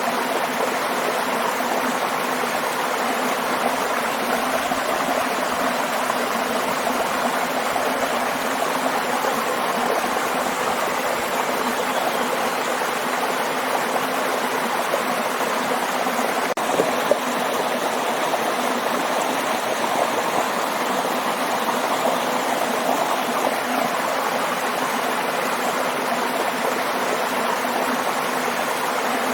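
Waterfall: a steady, even rush of falling water with no rise and fall.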